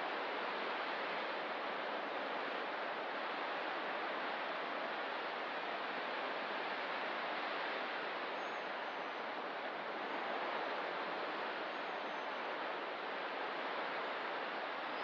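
Ocean surf on a rocky coast, a steady, even wash of noise with no distinct wave breaks. A few faint high chirps come in the second half.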